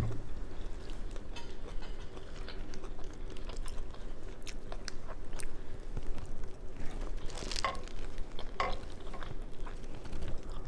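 Chewing and biting on seafood-boil shrimp, with small crackles as shells are peeled by hand, and a few sharper crunches about seven and a half and eight and a half seconds in.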